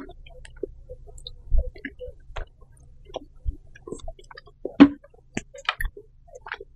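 Close-miked eating sounds: scattered small clicks and chewing noises with a few sharper knocks and low thumps, the loudest knock about five seconds in.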